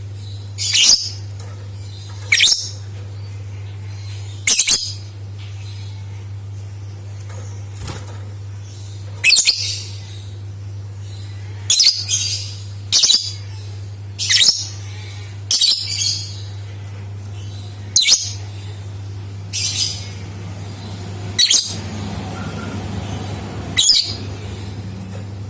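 Lovebird giving short, shrill chirping calls, about a dozen of them, one every one to two seconds, over a steady low hum.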